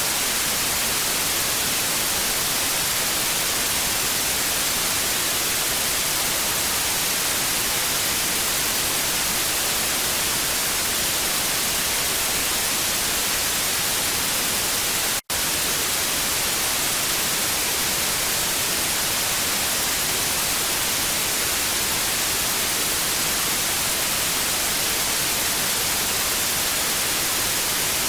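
Steady, loud TV static hiss, an even rushing noise weighted toward the high end, broken once about halfway through by a split-second silent gap.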